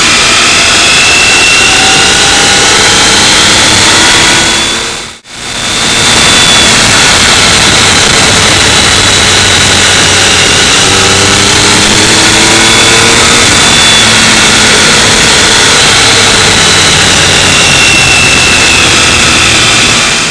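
Motorcycle engine running under heavy wind rush, its pitch slowly rising and falling as the revs change. The sound cuts out briefly about five seconds in, then carries on.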